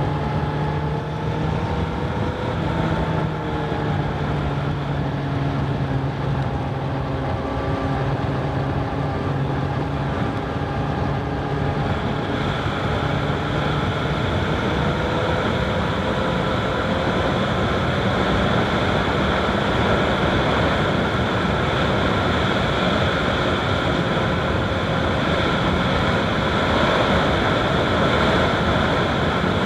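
Honda CBR1000RR SP's inline-four engine running under way at a fairly steady speed, its note drifting gently up and down, with rushing wind and road noise on the bike-mounted microphone that grows fuller about twelve seconds in.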